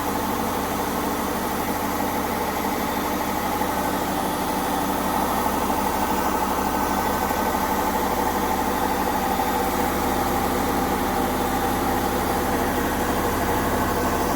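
Indesit 1400-spin washing machine spinning, its motor and drum giving a steady mechanical hum with vibration, a little louder from about five seconds in.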